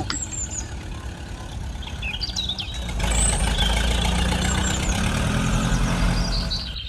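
An engine running steadily, getting louder about three seconds in, with birds chirping over it.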